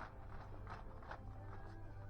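Footsteps walking at a steady pace, about three steps a second, stopping a little past halfway; near the end music with long held notes comes in over a low steady hum.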